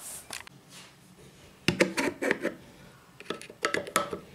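A removed washing machine drain pump being handled and taken apart: clusters of sharp plastic clicks and rattles, one under two seconds in and another near the end.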